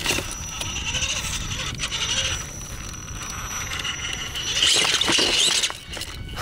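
Gmade Sawback scale RC rock crawler driving over rock: a thin steady high electric whine with tyres scraping and grinding on stone, louder about five seconds in.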